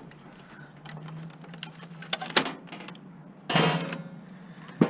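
Plastic clicks and rattles of a fax machine's casing and inner parts being handled and taken apart by hand, with a louder clatter about three and a half seconds in.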